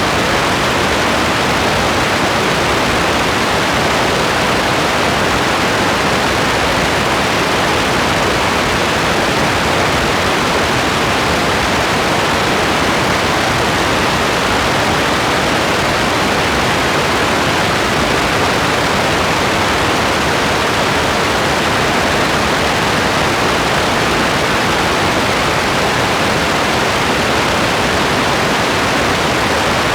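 Steady rain, a constant even hiss with no separate drops, gusts or thunder standing out.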